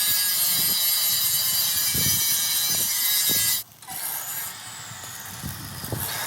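A power tool grinding or cutting metal, a loud, hissing scrape that cuts off suddenly about three and a half seconds in. A quieter sound follows, with a faint falling tone.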